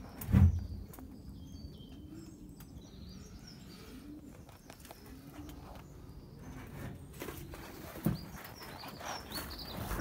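Birds chirping and calling outdoors, with short high chirps and some lower drawn-out calls. A heavy thump about half a second in is the loudest sound, and there is a sharper knock about eight seconds in.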